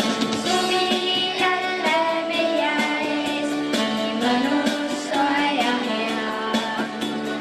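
A song with children and a woman singing over an upbeat backing track with a regular beat.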